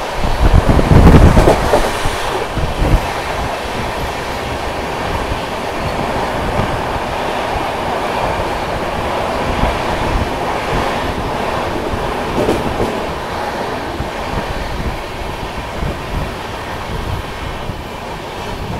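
Indian Railways express train running on the rails, heard from on board: a steady rumble of wheels and coach noise, with a louder rush in the first few seconds.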